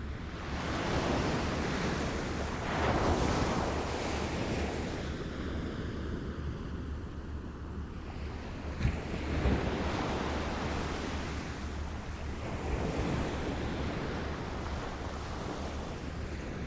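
Small waves lapping and washing ashore, swelling and falling back in slow surges every few seconds, with a steady low rumble of wind on the microphone. A brief sharp splash or knock comes about nine seconds in.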